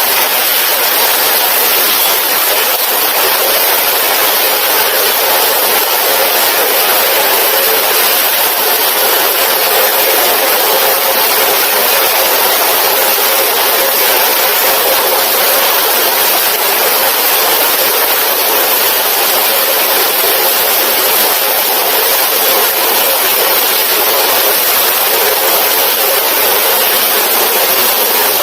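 Heavy tropical rain pouring down, an even, loud hiss with no breaks.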